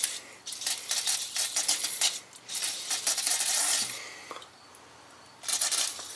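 CRC brake cleaner aerosol spraying in three bursts with short pauses between, washing grease off the open differential gears and case to degrease them for welding.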